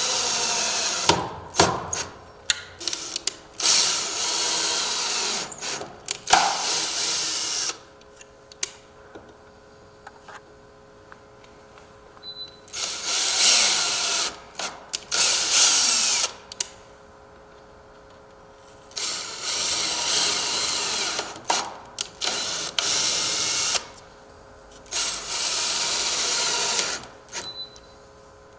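Cordless drill driver running in several bursts of one to three seconds, with clicks and pauses between them, driving self-tapping screws to fix a storm door closer bracket to the door jamb.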